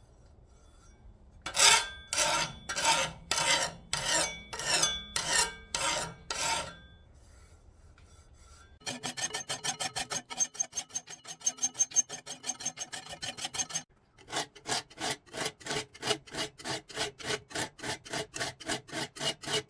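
Hand file rasping back and forth across the steel of a forged sickle blade. First comes a run of slow, heavy strokes, about two a second. After a pause come quicker, lighter strokes, about four a second.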